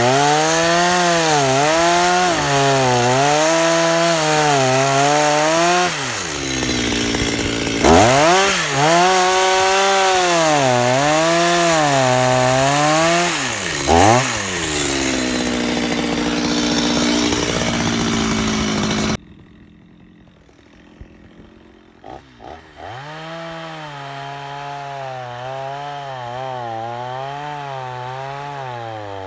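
Petrol chainsaw cutting into a log, its engine speed dipping and rising over and over as the chain bites into the wood, with brief let-offs in between. About two-thirds of the way through the loud cutting stops abruptly. After a short gap the saw is heard again, quieter, with the same wavering engine note.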